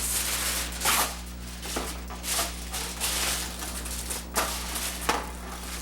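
Aluminum foil crinkling and rustling in irregular bursts as it is pressed and folded into a baking pan, over a steady low hum.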